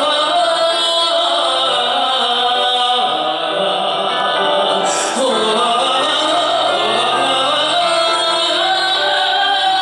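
Wordless sung vocalise on an 'o' vowel, held and gliding notes over a steady musical accompaniment.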